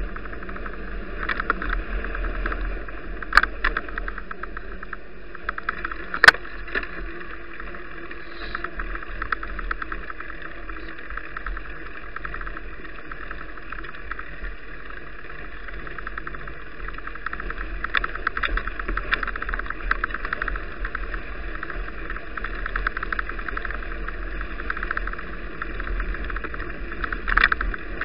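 Riding noise picked up by an action camera on a moving bicycle: a steady rush of wind and road noise with frequent small rattles and clicks from bumps, and sharper knocks about three and six seconds in.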